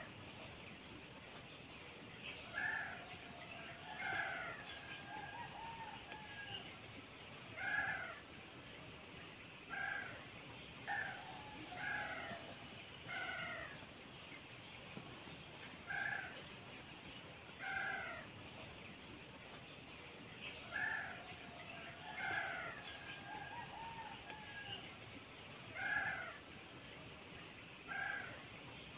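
Pitta calls: short, downward-slurred, mewing notes repeated about every one to two seconds, over a steady high whine.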